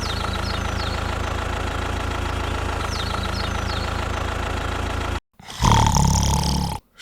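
Engine idling steadily with a low, even hum, cut off abruptly about five seconds in. After a brief gap comes a louder, different engine sound lasting about a second.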